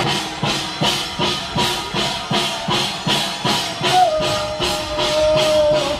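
Korean ritual percussion music accompanying a shamanic blade-riding rite: a steady beat of clashing strokes about three a second, with a high held note sounding over it near the end.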